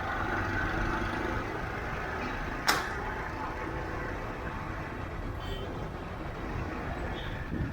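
Car driving in traffic: steady engine and road noise, with one sharp knock about a third of the way in.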